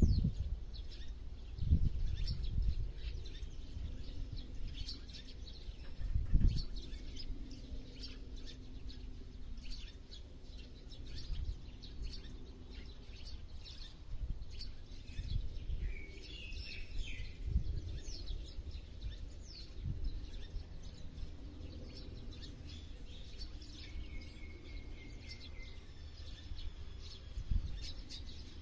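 Several wild birds chirping and calling, with many short high chirps throughout, a brief flurry of calls about halfway through and a falling whistle near the end. A few short low rumbles come and go underneath.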